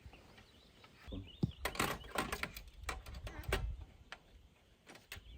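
Clicks and clunks of a gas canister being changed in a portable camping gas stove after the old one ran empty: a cluster of sharp knocks from about one to four seconds in.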